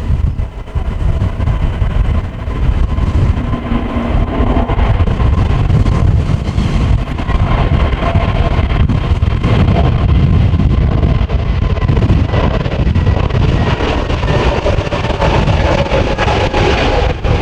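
Heavy wind buffeting the microphone in strong gusts, nearly drowning out the steady whine of an Airbus A320-family airliner's jet engines on departure.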